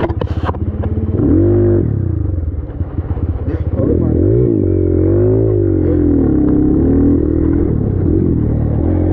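Dirt bike engine revving up and down as it is ridden, its pitch rising and falling repeatedly with the throttle, easing off briefly about two and a half seconds in.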